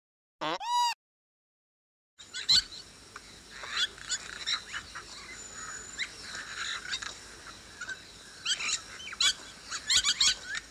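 A single short, high, arching call about half a second in, then from about two seconds in a steady hiss of ambience with many small birds chirping and twittering, including a brief high whistle.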